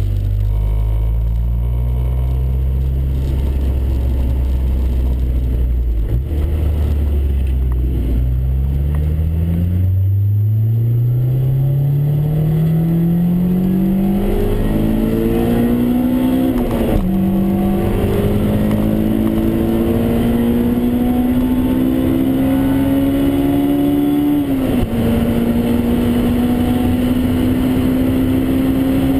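Honda S2000 AP1's 2.0-litre four-cylinder engine heard from inside the cabin, running at low steady revs, then from about ten seconds in revving up hard under acceleration. It shifts up just past halfway and again about four seconds before the end, each shift dropping the pitch before it climbs again.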